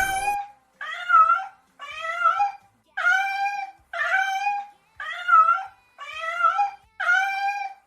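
A cat meowing over and over, one short meow about every second, each rising and falling in pitch.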